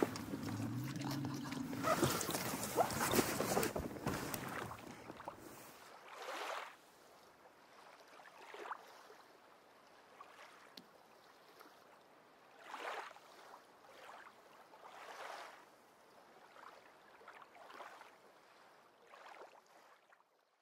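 Noise of an inflatable boat on the water while a hooked fish is fought on a pole rod: loud and busy with sharp knocks and splashes for about six seconds, then cut off abruptly, leaving only faint, intermittent soft swells of noise.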